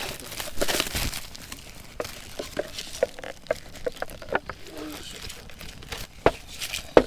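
Crinkling and rustling about half a second in, then a string of short light clicks and taps, with a sharper click near the end.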